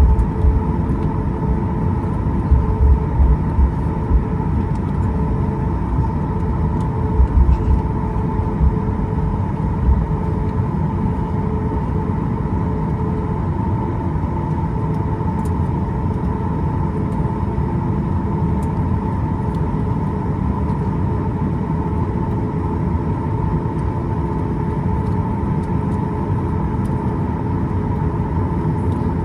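Boeing 737-8 MAX cabin noise: the CFM LEAP-1B engines hum steadily with a low rumble, and a few low jolts come in the first ten seconds or so.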